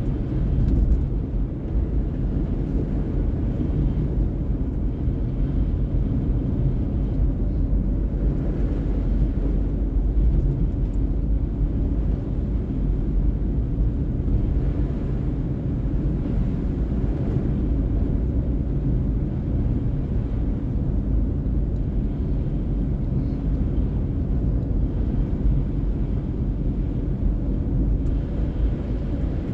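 Steady low road and engine rumble of a car being driven, heard from inside.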